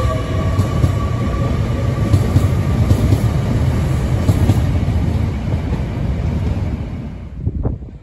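TransPennine Express Class 802 (Nova 1) train running past along the platform: a steady heavy rumble of wheels and running gear, with a whine that fades out in the first second or so. The sound dies away after about seven seconds as the last coach passes, leaving a few clicks.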